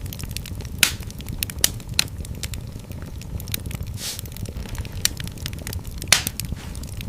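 Fireplace fire crackling steadily over a low rumble of flames, with several louder sharp pops scattered through.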